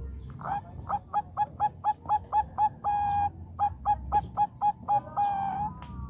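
Zebra dove (Bangkok perkutut) singing: a quick run of short, evenly spaced notes, about four a second, with one longer held note midway and a drawn-out falling note near the end.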